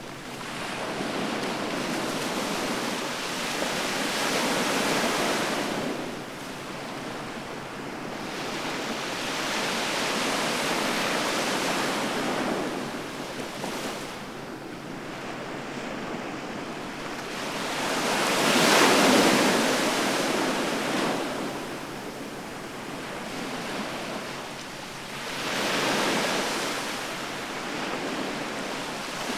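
Sea waves breaking and washing on the shore, the surf surging and ebbing in slow swells every several seconds; the loudest wave comes about two-thirds of the way through.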